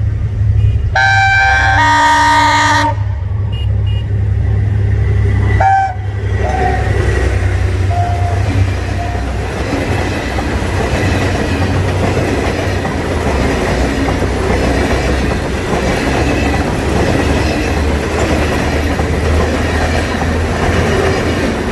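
Horn of an Egyptian National Railways Henschel diesel locomotive sounding one chord of several tones for about two seconds, starting about a second in, then a short toot near six seconds. A steady low engine rumble runs under it, and from about six seconds the dense rolling noise of the moving train takes over.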